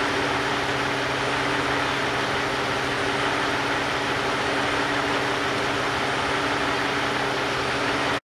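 A vehicle engine idling steadily with a constant low hum. The sound cuts off abruptly near the end.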